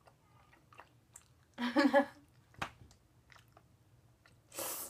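Candy being chewed with the mouth: faint wet mouth clicks, the candy described as hard. A short, loud hummed voice sound comes about a second and a half in, and a breathy burst near the end.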